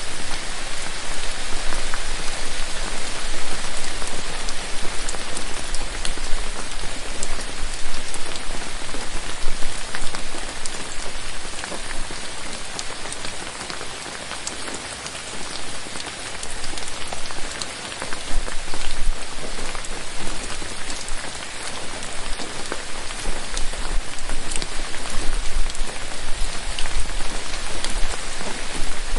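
Steady rain falling in a forest: an even hiss with many separate drops ticking, swelling and easing slightly in strength.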